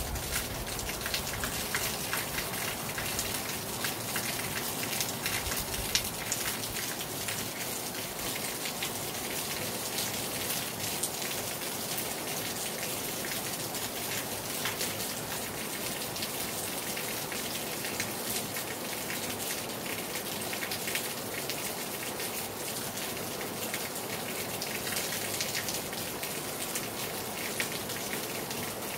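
Rain falling hard on a terrace: a steady hiss with a dense, constant patter of drops hitting hard surfaces.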